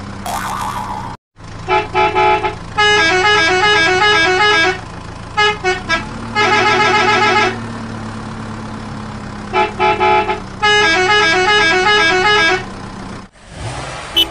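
Toy dump truck's electronic sound chip playing a beeping horn and a quick jingle of stepping notes, three times over, each round opening with a few short beeps. A steady low hum runs underneath.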